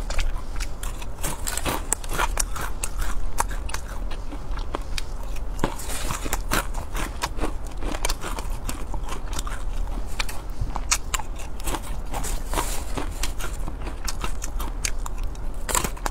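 Close-miked chewing of fried silkworm pupae: a dense series of quick crunches and crackles as they are bitten and chewed.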